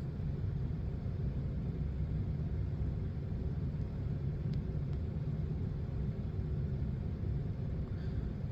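Steady low rumble of a vehicle on the move, engine and road noise, with one faint click about four and a half seconds in.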